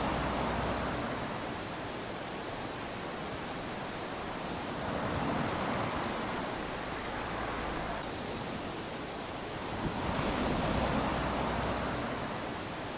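Small waves lapping onto a sandy beach: a steady wash that swells and fades roughly every five seconds, with surges near the start, around five seconds in and around ten seconds in.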